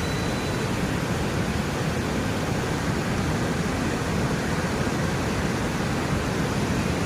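River water rushing, a steady, even roar of flowing water.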